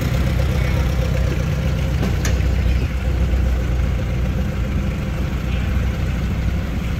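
Steady low engine rumble, with a single sharp click about two seconds in.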